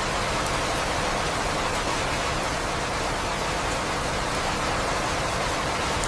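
Steady rain, an even hiss with no let-up and no thunder.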